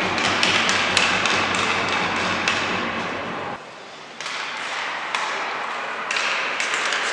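Sharp taps and knocks, several in the first two and a half seconds and more near the end, over a steady noise of a large hall. The noise drops out briefly about three and a half seconds in.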